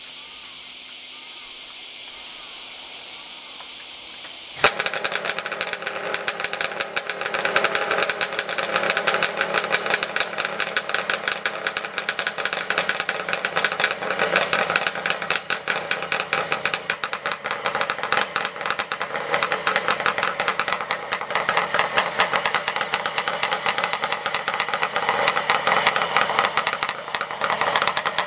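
Kawasaki KH400 air-cooled two-stroke triple, breathing through newly fitted Zenshin Engineering expansion chambers, starting suddenly about four and a half seconds in and then running with a fast, even two-stroke beat.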